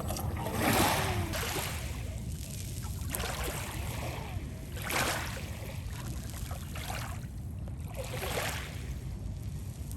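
Lake water splashing and lapping in soft washes every couple of seconds, over a steady low rumble.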